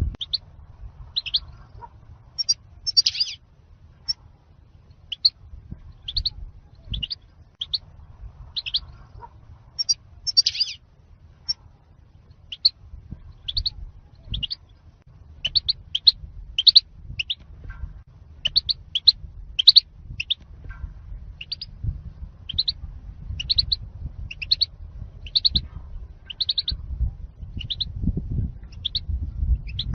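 European goldfinch calling: short, high, clipped chirps repeated about once a second, often in quick pairs or small clusters, over a low steady rumble.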